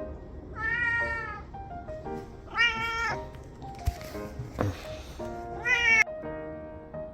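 Three drawn-out animal calls, each rising and falling in pitch, about a second to two seconds apart, over soft background music with sustained notes.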